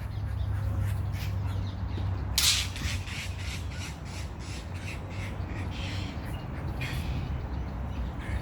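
Blue jay giving a string of harsh, squawking calls at irregular intervals, the loudest about two and a half seconds in.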